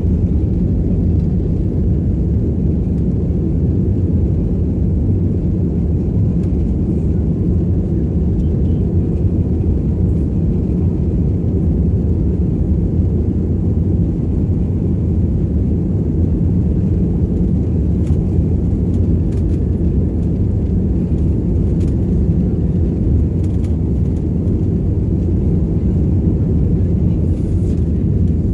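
Commercial airliner's jet engines and airflow, a steady low roar heard inside the cabin during the takeoff climb.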